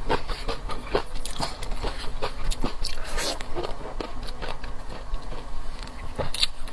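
Close-miked eating of seafood: irregular wet clicks and crunches of chewing and biting, with small knocks from handling the food.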